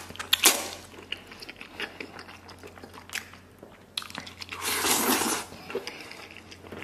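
Close-up mouth sounds of a person biting into and chewing soft, sticky braised beef tendon: wet clicks and smacks, the sharpest about half a second in, and a longer, noisier mouth sound near five seconds.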